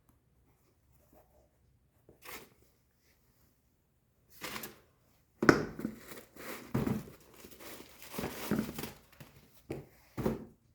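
Packing material crinkling and rustling in short irregular bursts as a new pair of shoes is handled out of its box, busiest in the second half.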